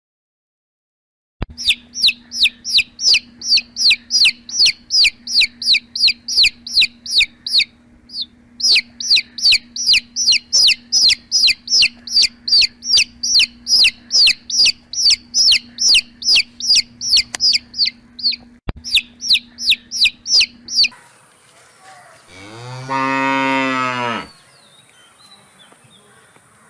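Rapid high-pitched chirping, about three chirps a second, each falling in pitch, runs for some twenty seconds over a faint steady hum. It stops, and a cow moos once, a low call lasting about two seconds.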